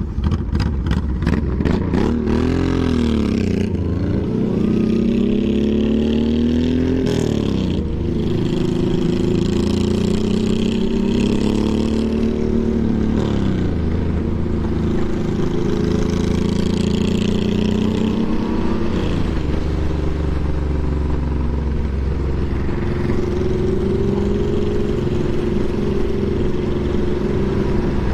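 Motorcycle engine under way, its pitch climbing under acceleration and then dropping sharply at each gear change, several times over, with a steady low rumble underneath.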